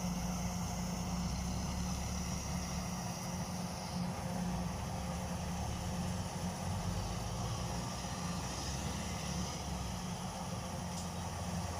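Kubota DC105X combine harvester's diesel engine running steadily with an even low hum.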